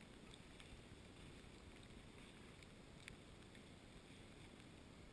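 Near silence: a faint low rumble with a few small ticks.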